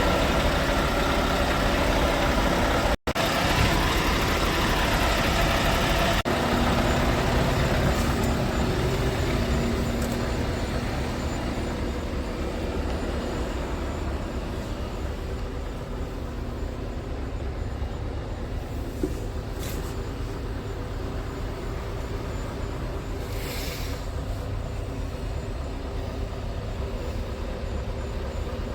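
Scania R580 truck's 16-litre V8 diesel idling steadily, with two short hisses of air about two-thirds of the way through.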